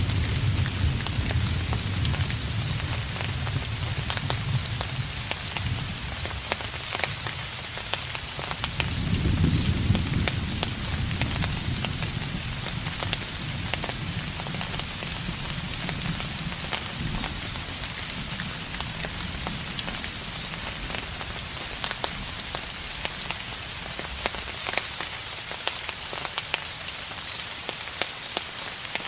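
Steady rain falling, with many close drops ticking, under distant thunder: a low rumble fades away over the first few seconds, and another rolls in about nine seconds in and dies down over a few seconds.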